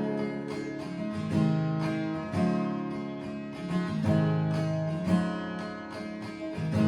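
Acoustic guitar strummed in an instrumental passage between sung verses, a new chord stroke about once a second.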